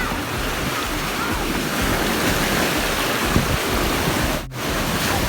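Rough sea surf rushing and breaking on a beach, a steady wash of waves with wind on the microphone. The sound drops out for a moment about four and a half seconds in.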